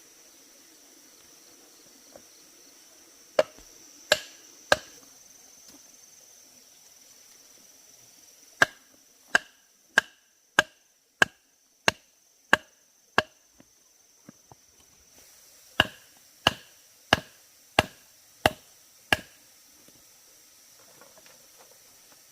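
Sharp strikes of a tool on wood or bamboo, about one and a half a second, in three runs: three, then eight, then six. Crickets or other insects keep up a steady high buzz underneath.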